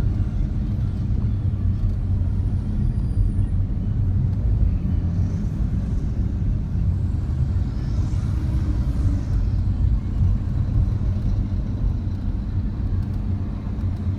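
Road traffic with heavy trucks: a steady low engine rumble throughout, with one vehicle passing close about eight seconds in.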